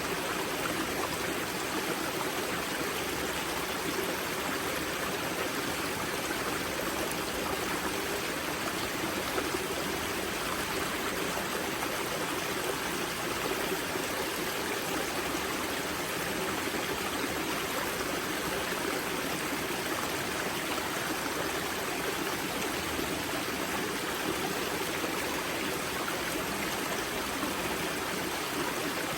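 Spring-fed mountain river rushing and splashing steadily at its source, a continuous full water noise with no breaks.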